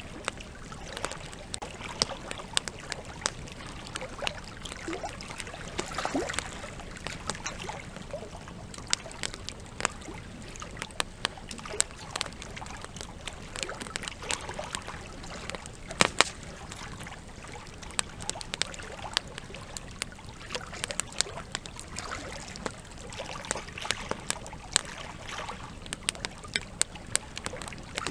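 Campfire crackling with frequent sharp, irregular pops over the steady trickle and rush of a river; one pop about halfway through is louder than the rest.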